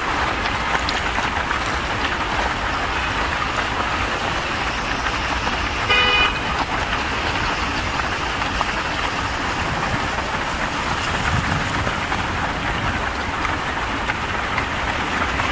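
Steady hiss of rain and car traffic on a wet road, with one short car horn toot about six seconds in.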